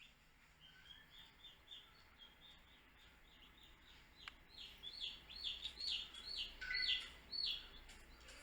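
Baby chicks peeping: a run of short, high chirps, each dropping slightly in pitch, coming a few a second and growing louder and busier over the last few seconds.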